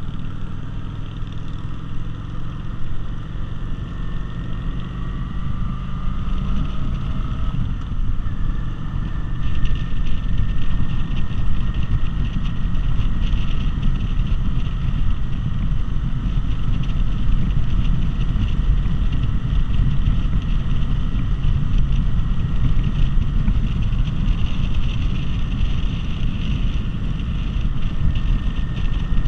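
Cruiser motorcycle riding at road speed, its engine running under heavy wind noise on the microphone; the wind rush gets louder about a third of the way in.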